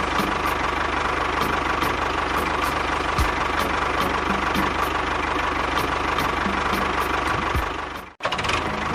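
An engine running steadily with a regular knock. About eight seconds in, the sound cuts out for a moment and then resumes.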